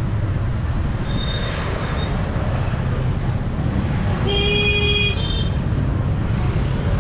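Steady rumble of road traffic, with a vehicle horn sounding for about a second roughly four seconds in, followed at once by a short, higher-pitched toot.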